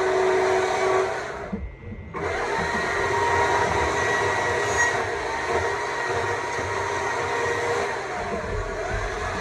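Stihl MSA 200 C battery chainsaw running and cutting wood, with the whine of its electric motor. The trigger is let off briefly about a second and a half in, and the motor then spins back up and keeps cutting.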